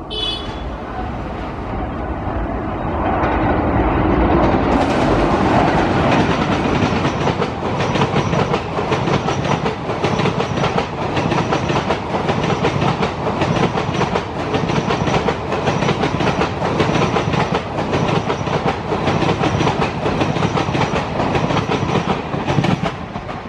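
A passenger express train passing at high speed, its coaches' wheels clattering rhythmically over the rail joints with a loud rushing of air and rail noise. A train horn cuts off right at the start, and the rush swells sharply about five seconds in.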